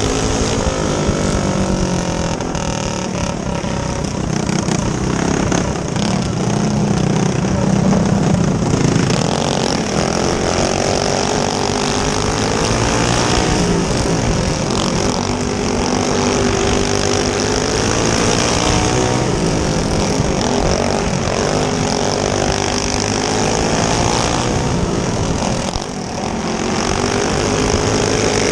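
Small single-cylinder four-stroke clone kart engines running at race speed. Their pitch rises and falls over and over as the karts accelerate down the straights and back off into the turns.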